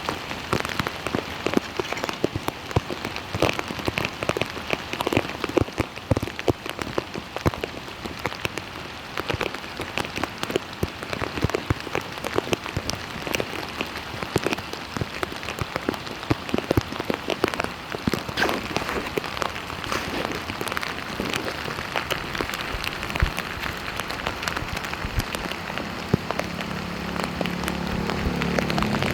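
Rain falling on a surface, a dense, irregular patter of drops. Near the end a low steady hum comes in underneath.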